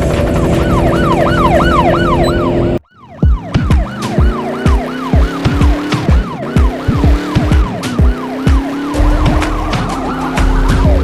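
Police car siren in a fast yelp, rising and falling about three times a second. The sound cuts out abruptly about three seconds in, then the siren comes back over a steady low thumping beat.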